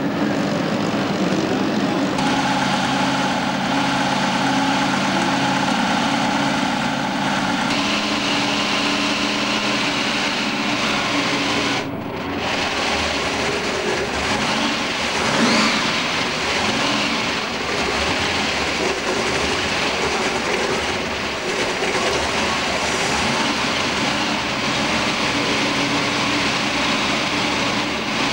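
Car engines running. For the first twelve seconds an engine idles steadily. Then a supercharged hot rod V8 idles with a rough, uneven rumble and is revved briefly about fifteen seconds in.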